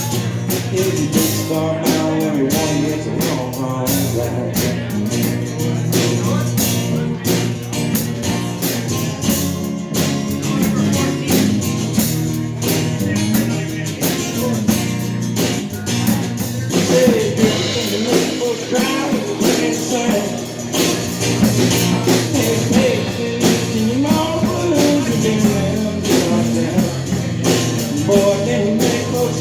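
Live blues-rock band playing an instrumental passage, with guitar over a steady drum beat.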